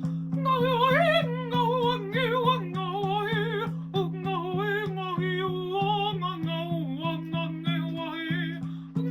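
Wordless improvised singing, a voice gliding between held notes with vibrato, over a steady low drone plucked in an even rhythm of about four strokes a second.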